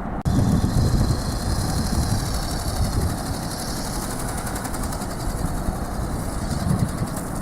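Strong wind buffeting the microphone: a gusty low rumble that gets louder a moment in, with a faint high whine wavering in pitch above it.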